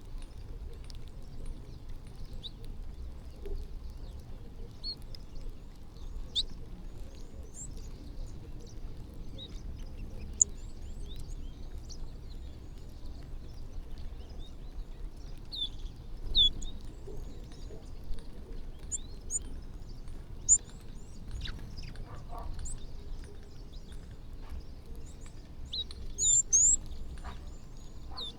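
Small birds chirping and calling in short, scattered high notes over a steady low background rumble, with a louder flurry of chirps near the end.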